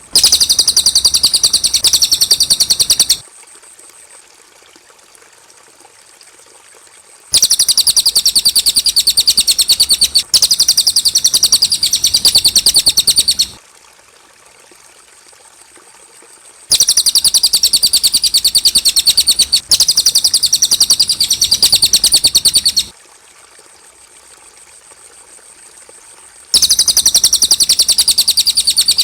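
Cililin bird singing in long, rapid trills of high notes, each lasting about three to six seconds and separated by pauses of about four seconds. There are four song bursts, the last cut off at the end.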